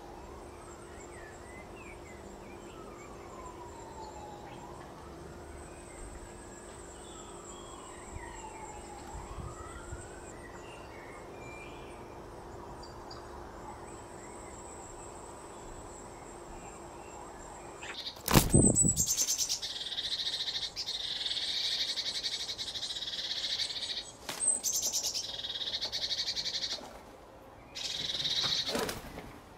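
Birds calling: faint chirps over a steady hum, then a sharp click about eighteen seconds in, followed by a much louder, shrill chirping with short breaks.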